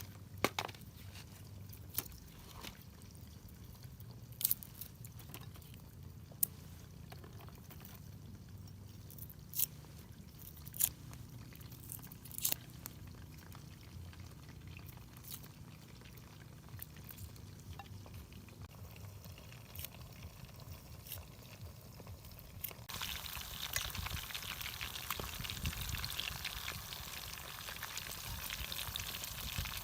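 Scattered clicks and knocks of cooking preparation over a low hum, then about two-thirds of the way in a sudden loud sizzle starts as fish goes into hot oil and begins frying, continuing steadily.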